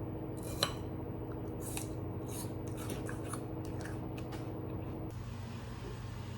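Kitchen utensils in food preparation: a run of short, irregular snips and clicks, over a steady low hum that stops about five seconds in.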